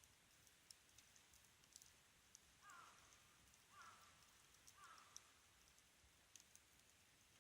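Wood fire crackling faintly, with sparse sharp pops and ticks over a soft hiss. Near the middle come three short, bending calls about a second apart.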